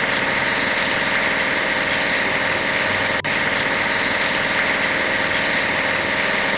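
A construction machine's engine running steadily, a looped sound effect that briefly cuts out and restarts about three seconds in and again near the end.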